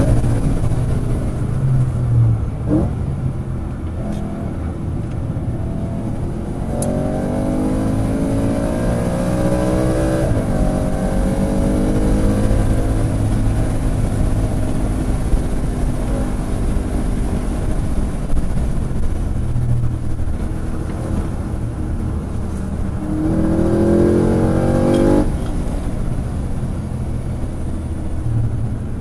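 Car engine under hard acceleration on track, over a constant road and wind rumble. Its note climbs steadily in pitch twice, from about seven to ten seconds in and again from about twenty-three to twenty-five seconds in, each time cutting off sharply at the top for a shift or lift.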